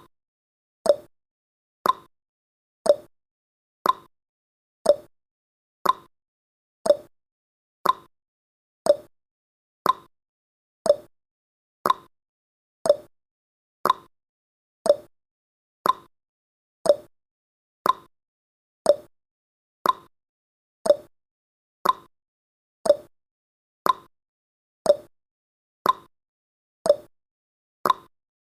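Countdown timer's clock tick-tock sound effect, one short tick each second, alternating between a higher tick and a lower tock as the seconds count down.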